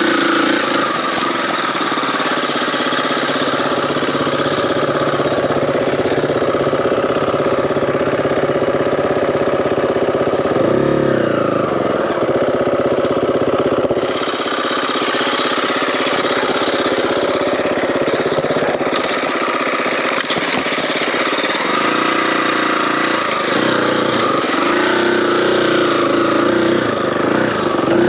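Four-stroke dirt bike engine running as it is ridden along single track, its revs rising and falling with the throttle, most plainly about a third of the way in and again near the end.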